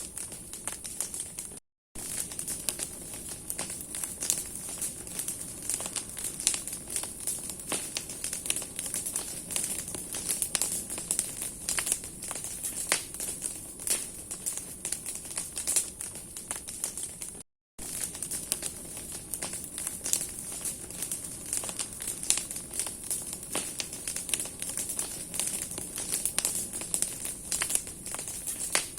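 Bonfire of branches burning, the wood crackling and popping densely and irregularly over a steady hiss. The sound drops out completely for a moment twice.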